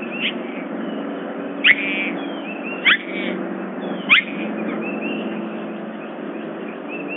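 Bird calling: three loud, sharp calls that sweep steeply downward in pitch, about a second apart, with a few fainter chirps around them, over a steady low hum.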